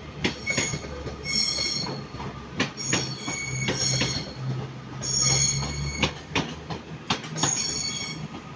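Class 220 Voyager diesel multiple unit pulling out. Its wheels squeal in several short stretches over the curved pointwork, with repeated clicks as the wheels cross rail joints and a steady low diesel hum underneath.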